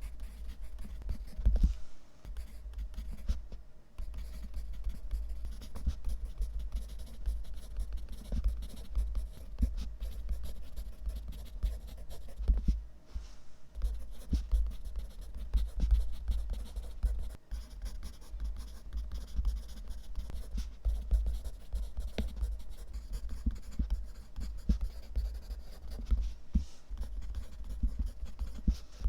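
Continuous scratching and rubbing with many small clicks, over a steady low rumble.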